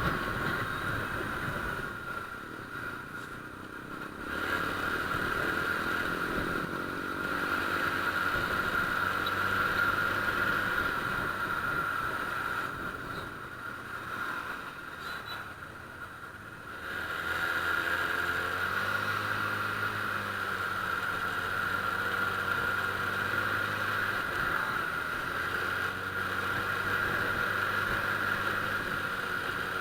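Honda Click scooter's engine running while riding, with a steady high tone over it. The engine eases off twice, around two to four seconds in and again from about thirteen to seventeen seconds in, then picks up again.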